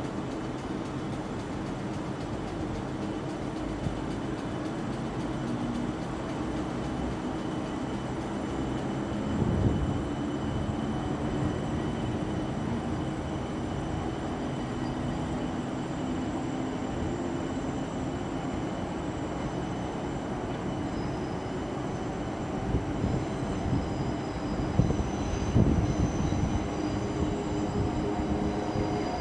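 Passenger train moving slowly through a railway terminus, with a steady rumble and high whining tones. There is a loud knock about nine seconds in, and a run of sharp clicks and knocks from the wheels near the end.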